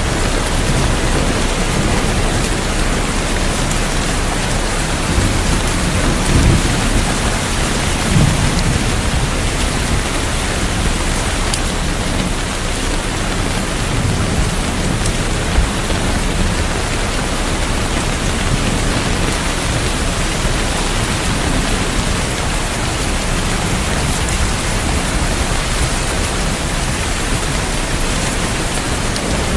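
Heavy, steady rain pouring down, with low rolls of distant thunder about six to eight seconds in and again around fourteen seconds.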